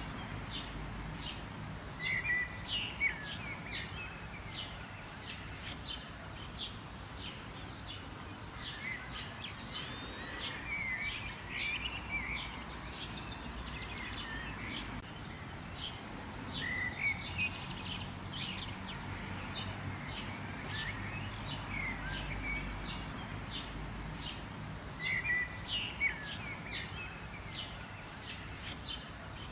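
Several birds chirping and calling, many short high chirps overlapping with a few warbled phrases, over a faint low rumble.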